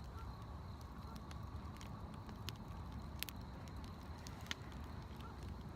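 Wood campfire burning: a few sharp crackles and pops over a low, steady rumble.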